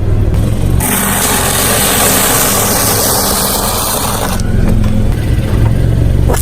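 Car engine running steadily. From about a second in, a loud harsh rushing noise covers it, then stops abruptly about three and a half seconds later.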